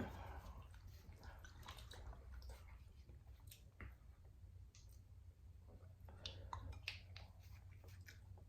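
Faint chewing and small wet mouth clicks of a person eating pork spare ribs, close to the microphone, over a low steady hum.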